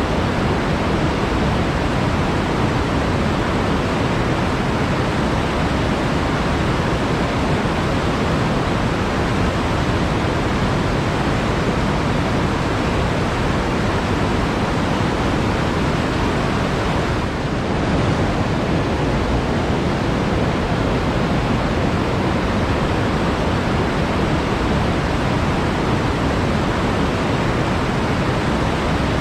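Steady rush of flowing water, like a forest stream or small waterfall, unbroken apart from a brief slight dip a little past halfway.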